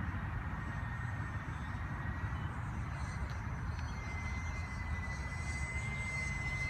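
Twin-engine remote-control model Aero Commander flying overhead, its motors and propellers making a steady high whine that rises slightly in pitch about four seconds in.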